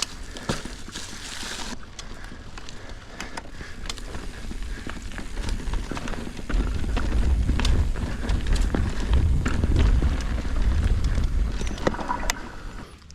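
Mountain bike moving over rocky trail ground: scattered clicks and crunches from the tyres and bike, with a low rumble that swells through the middle.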